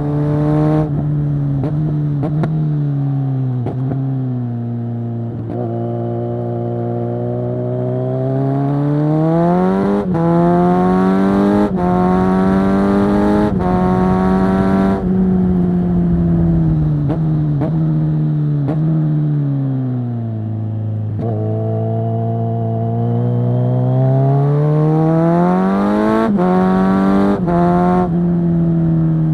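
Kawasaki Z900 SE inline-four engine running through a Zard full-system exhaust, loud, under riding load. The pitch sinks over the first five seconds as the bike slows, climbs again with a gear change about ten seconds in, sinks from about fifteen to twenty-one seconds, then climbs once more with another gear change about twenty-six seconds in.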